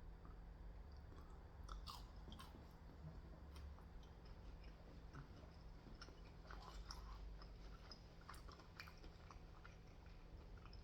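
A person chewing food close to the microphone: faint, scattered wet mouth clicks and crunches.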